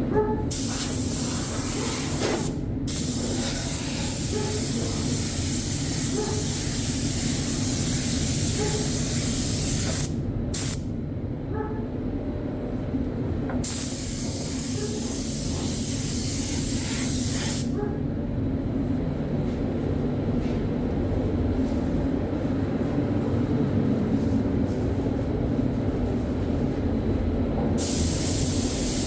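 Spray gun hissing as bodywork primer is sprayed, in long passes with brief breaks, then stopping for about ten seconds before one more pass starts near the end. A steady low hum runs underneath throughout.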